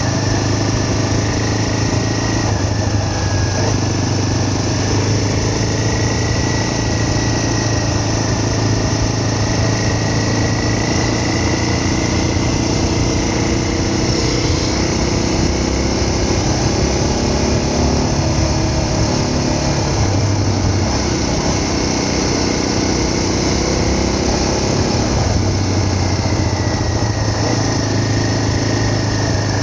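A vehicle engine running steadily while travelling, with a thin high whine over a low hum; the whine drifts slightly in pitch.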